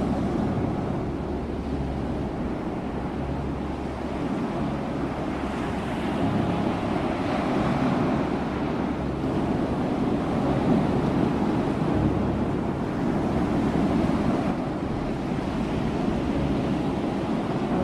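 Ocean waves washing onto a shore, a continuous surf rush that swells and eases slowly, with some wind noise.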